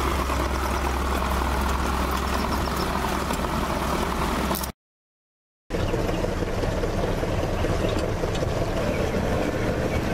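Skiff's motor running steadily under way, with wind and water noise. The sound drops out completely for about a second midway, then resumes.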